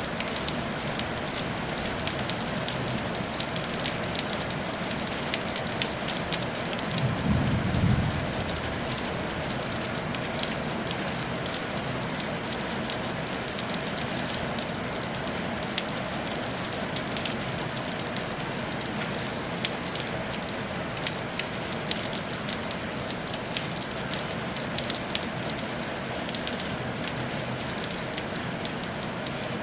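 Steady rain falling on a tile roof, a dense patter of individual drops over an even hiss. About seven seconds in, a brief low rumble lasting about a second stands out above the rain.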